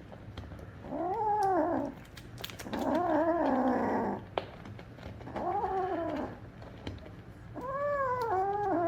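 A cat meowing four times, each drawn-out call rising and then falling in pitch.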